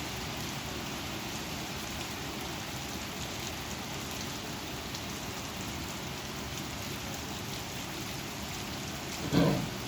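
Steady rain from a thunderstorm pouring down in an even hiss. About nine seconds in there is one brief, louder thump.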